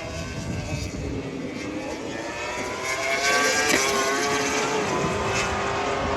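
MotoGP racing motorcycle engine accelerating, its pitch rising and growing louder about halfway through, then holding a steadier note.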